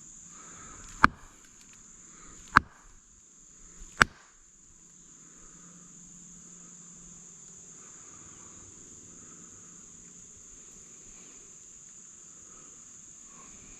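Three sharp tree knocks, a wooden stick struck hard against a tree trunk about a second and a half apart, sent out as a signal to draw an answering knock. A steady high insect hiss runs underneath.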